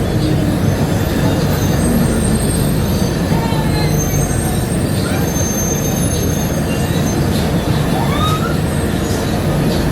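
Steady running noise of a Bombardier APM100 rubber-tyred people mover in motion, heard from on board. Faint whines glide down in pitch near the start and up about eight seconds in.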